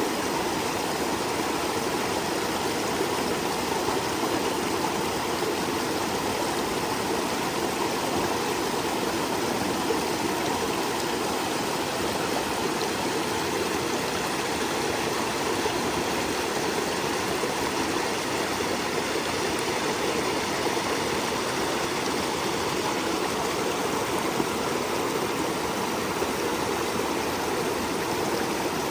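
Small stream of water flowing steadily over stones, an even rushing and babbling.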